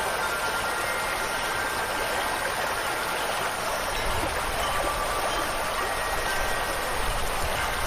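Steady rushing water, like a stream or waterfall, as a dense even hiss, with a few faint high bell-like wind chime tones ringing through it. A low rumble joins the water about halfway through.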